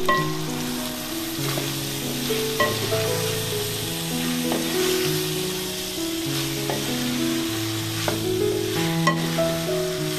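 Food frying in a hot pan, sizzling steadily, with a few short clicks of stirring through it. Soft keyboard music plays underneath.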